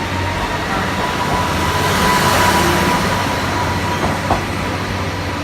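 KiHa 40 series diesel railcar moving out, its diesel engine running steadily with wheel and rail noise; a single sharp click a little after four seconds in.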